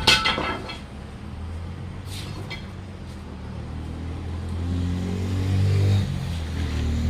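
A quick run of metal clanks with a short ring right at the start, then a low, steady engine hum that swells and drops back about six seconds in.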